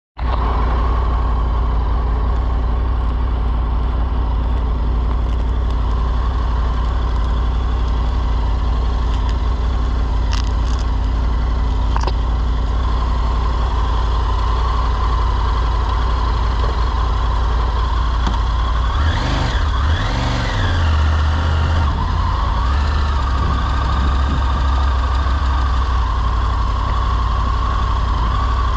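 Motorcycle engine running steadily, its note rising and falling twice about twenty seconds in and once more briefly soon after.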